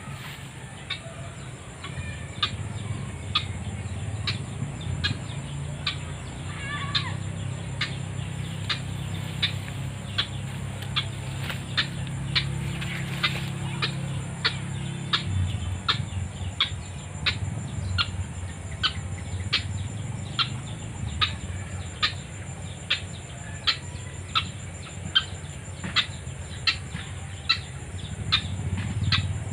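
White-breasted waterhen calling: a long, even series of short harsh notes, about one and a half a second, growing louder toward the end.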